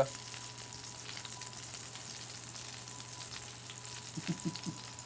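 Breadcrumb-coated chicken cutlets frying in a pan, a steady sizzle.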